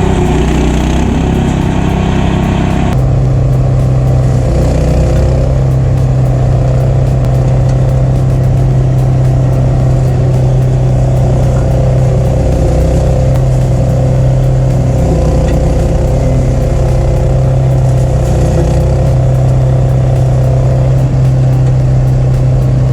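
Gas engine of a UTV-mounted brush cutter running at a steady speed, a constant low drone that shifts once about three seconds in and then holds even.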